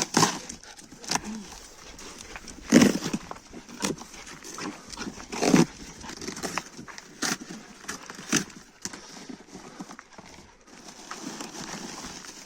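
Cardboard parcel being handled and opened: irregular knocks, taps and scrapes, with two louder thumps about three seconds and five and a half seconds in.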